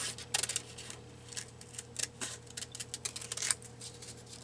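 Scissors snipping through paper in a few short, separate cuts, each a crisp click; the scissors are not cutting very well.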